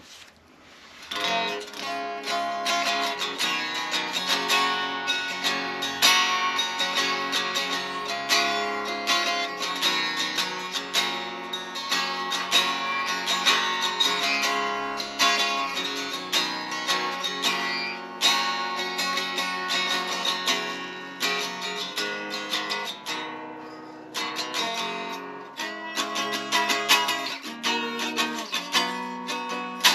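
Chapman SAR63 semi-hollow electric guitar being played, a mix of strummed chords and picked single notes, starting about a second in.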